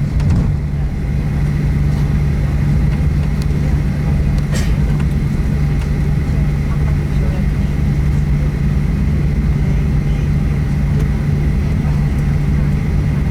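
Steady low hum inside the cabin of a Boeing 737-800 parked after landing, with a thin high tone over it and a single sharp click about four and a half seconds in.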